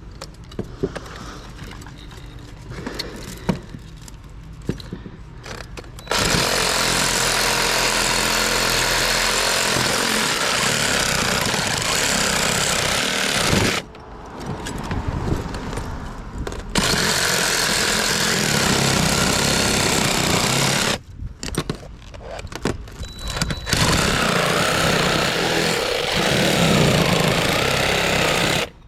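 Electric power saw with a toothed blade cutting into an electric motor, run three times for several seconds each with short pauses of handling between. The blade has been cutting poorly, which turns out to be the teeth catching on raised metal.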